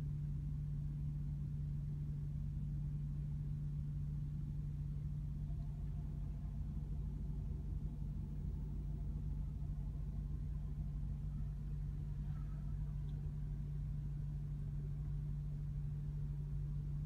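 The Audi RS4's 4.2-litre naturally aspirated V8 idling steadily in park, heard from inside the cabin as a constant low hum.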